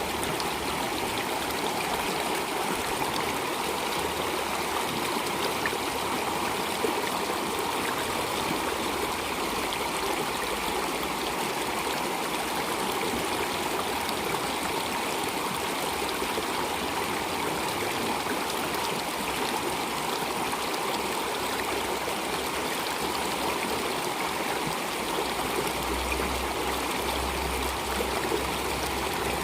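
Water flowing steadily in a stream. A low rumble joins in near the end.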